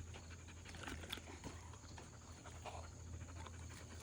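Dogs panting quietly, with a few faint scattered clicks over a steady low hum.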